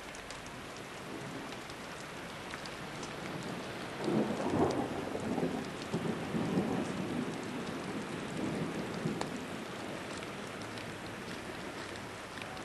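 Heavy rain hissing steadily, with a few sharp taps, as a rumble of thunder swells about four seconds in and rolls on for several seconds.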